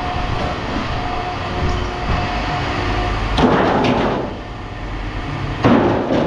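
Two crashing clatters, about three and a half seconds in and again near the end, of scrap metal pieces being dropped or tossed onto a pile, over a steady machinery hum.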